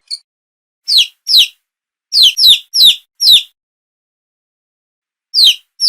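Eight short, high chirps, each falling in pitch, in groups of two, four and two with dead silence between. They sound like bird-like calls.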